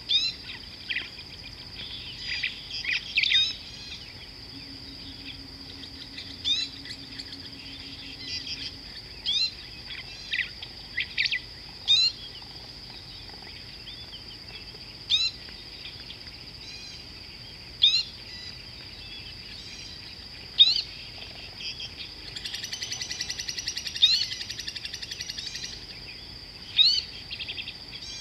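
Wild birds calling with short, sharp rising chirps every two to three seconds over a steady high-pitched insect drone. A rapid rattling trill runs for about three seconds, starting about three quarters of the way in.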